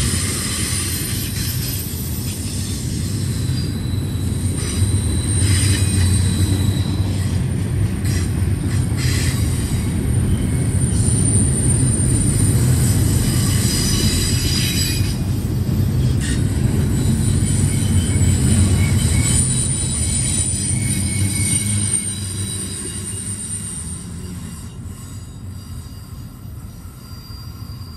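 Double-stack intermodal train's well cars rolling past close by: a steady wheel rumble with high steel wheel squeals coming and going. The sound fades over the last few seconds as the end of the train passes and moves away.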